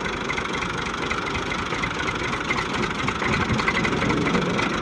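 Tractor engine running steadily, a little louder in the second half.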